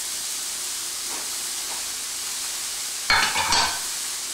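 Shredded green cabbage sizzling in hot oil in a frying pan: a steady hiss, with a brief louder noise about three seconds in.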